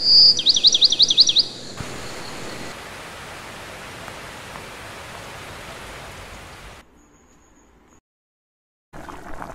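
A quick run of about eight high, downward-sweeping bird chirps in the first second and a half, followed by a steady hiss of background noise that fades near the end.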